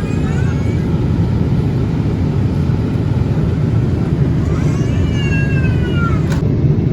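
Steady low rumble and rush of a Boeing 787-8 airliner in flight, heard from inside the cabin. A faint voice briefly rises above it about five seconds in.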